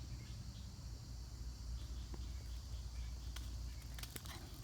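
Outdoor background: faint steady insect chirring, a low wind rumble on the microphone, and a couple of soft clicks near the end.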